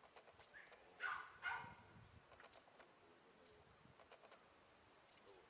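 Animal calls: two short, loud yelps about a second in, half a second apart, with a few brief high chirps scattered through.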